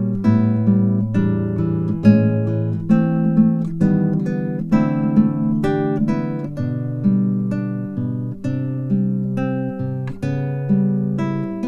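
Acoustic guitar music: plucked chords and notes about two or three a second over sustained bass notes.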